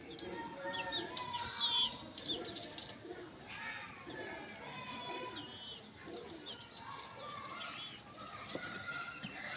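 Small pet parrots chirping and chattering: many short high chirps overlapping with longer held whistled notes.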